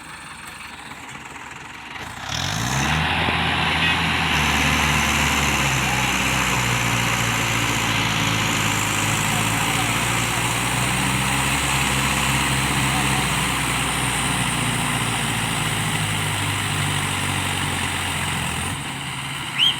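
Heavy diesel engine revving up sharply about two seconds in, then running hard at steady high revs before dropping back near the end, as a vehicle strains to pull through wet soil. A short sharp knock comes at the very end.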